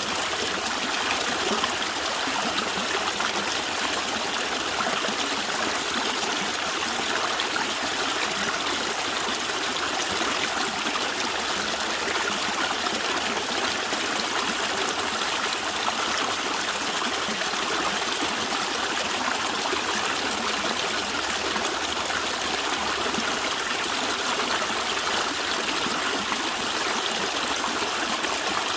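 Natural running water gurgling, a steady even rush with no pauses or breaks.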